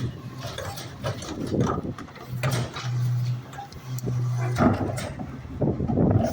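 Rear-loader garbage truck at work: a low mechanical hum that starts and stops, with repeated metallic clanking and rattling.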